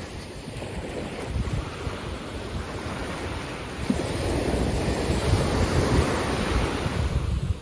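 Ocean surf washing onto a beach, with wind buffeting the microphone. It grows louder about halfway through.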